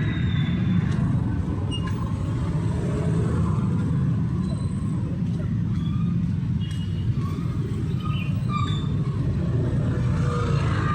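Steady city road traffic: a continuous low rumble of passing cars and motorbikes, with a few faint short high-pitched sounds over it.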